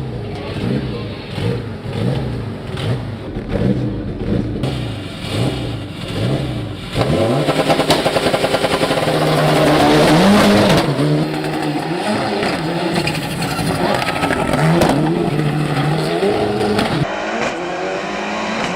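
Turbocharged Mitsubishi Lancer Evolution VI hill-climb car's four-cylinder engine revving in quick repeated blips, about three every two seconds. About seven seconds in it goes abruptly louder at full throttle, its note climbing in steps through the gears, and eases off near the end.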